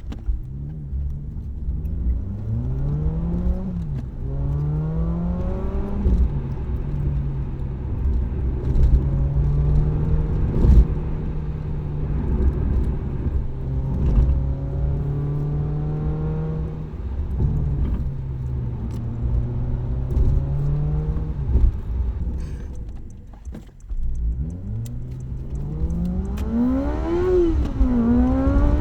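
Car exhaust note while driving: the engine revs climb through two quick upshifts, then hold a steady cruise for about fifteen seconds. It drops off as the car slows, then pulls up through the gears again near the end.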